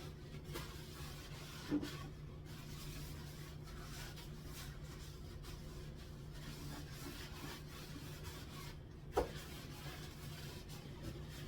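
Faint rubbing of a towel wiping the inside of a kitchen cupboard, over a steady low hum. Two light knocks come through, one about two seconds in and a louder one about nine seconds in.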